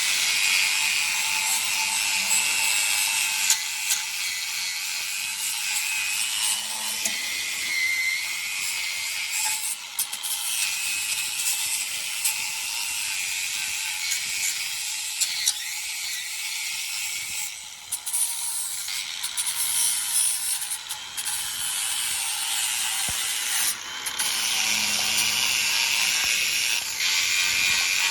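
Ratchet wrench turning a bolt in the Mustang's K-member mount, ratcheting steadily with a few short pauses.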